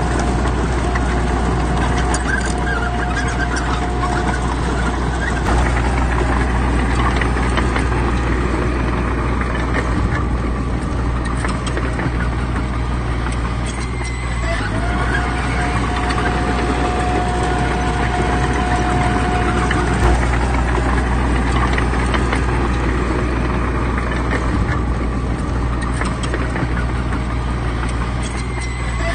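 Heavy diesel earthmoving machinery, bulldozers, working with a steady low engine drone and scattered clanks. A steady high whine comes in for a few seconds around the middle.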